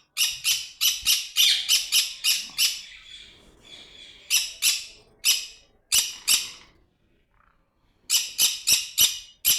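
Caged parrots squawking: a fast run of short, shrill calls, about three a second, then scattered calls, a brief lull, and another fast run near the end.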